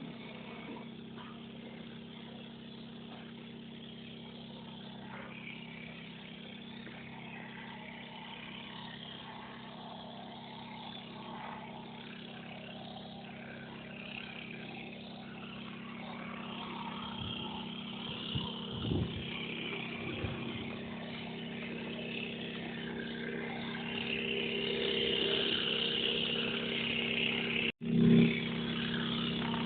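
Propellers of a large four-rotor cargo drone humming steadily, growing louder toward the end. Near the end the sound cuts out briefly and is followed by a short loud bump.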